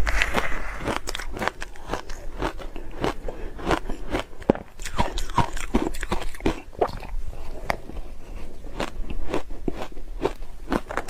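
Ice being bitten and chewed close to the microphone: a steady run of sharp, irregular crunches and cracks, densest in the first half second.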